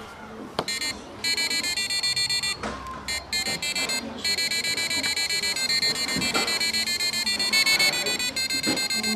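Rapid strings of high, buzzy electronic beeps that jump between pitches like a simple tune, over a steady background hubbub.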